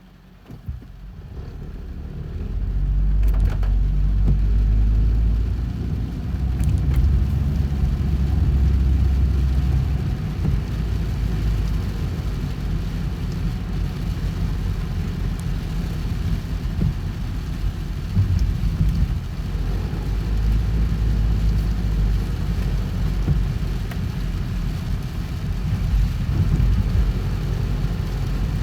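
Car driving, heard from inside: engine and road rumble build up over the first few seconds as the car pulls away, then run as steady low driving noise.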